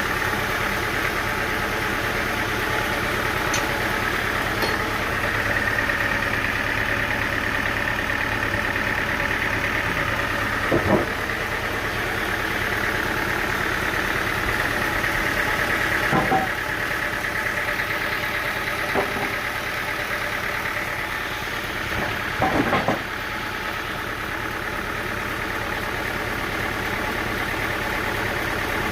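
An engine running steadily at an even speed, broken by a few short, sharp knocks spread through it, with a double knock near the end.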